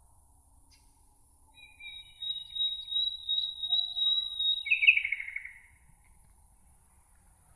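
A songbird sings one phrase starting about two seconds in: a long, high, steady trill with lower notes beneath it, ending in a quick falling buzzy run. A faint steady high hiss runs underneath.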